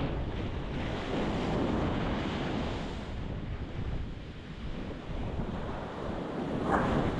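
Ocean surf breaking on a rocky shore: a continuous wash of waves that swells over the first few seconds, with a louder wave crashing near the end, and a low rumble of wind on the microphone.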